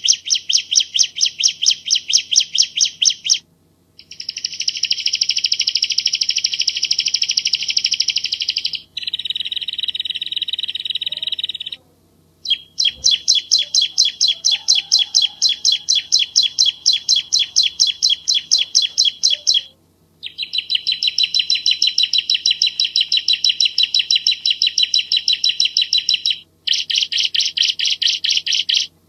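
Bar-winged prinia (ciblek Jawa) singing long, loud trills of rapid, evenly repeated high notes, about six phrases of a few seconds each with short breaks between. Some phrases are denser and buzzier than others.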